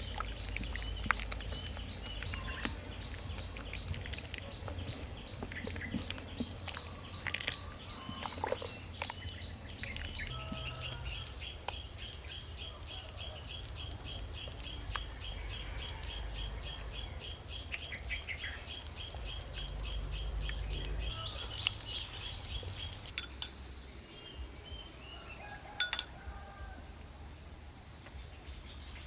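Outdoor ambience of wild birds or insects chirping in rapid, evenly repeated high trills, over a low rumble with a few sharp clicks.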